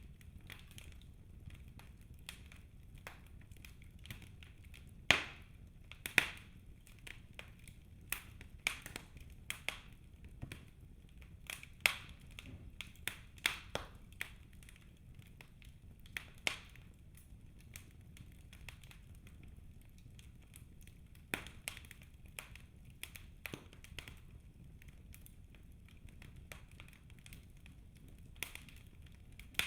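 Wood fire burning in a fireplace, crackling with irregular sharp snaps over a low steady rumble of the flames; the loudest snaps come about five and six seconds in.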